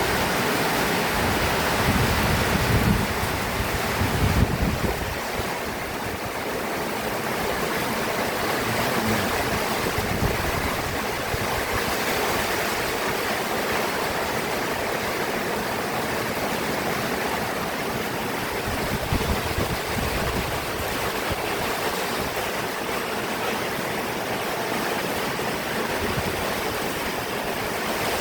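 Heavy rain pouring steadily, a dense even hiss, with wind gusts buffeting the microphone in the first few seconds.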